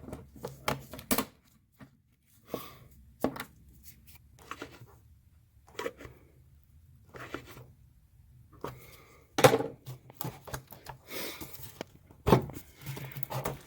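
A 2008 Chevy Cobalt's air intake duct and air cleaner being worked loose by hand: scattered clicks, knocks and scrapes, with a louder knock about nine and a half seconds in and another about twelve seconds in.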